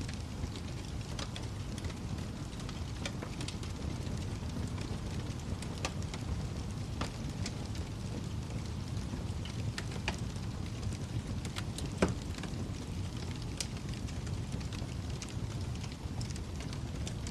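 Wood fire crackling in a fireplace: a steady low rumble of flames with scattered sharp pops, and one louder pop about twelve seconds in.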